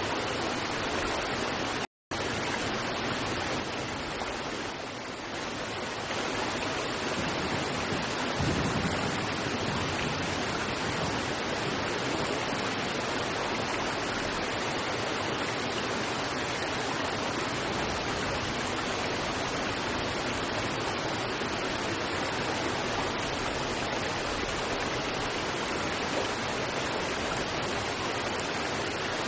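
River water rushing steadily over rocks, a dense even hiss. The sound drops out for an instant about two seconds in.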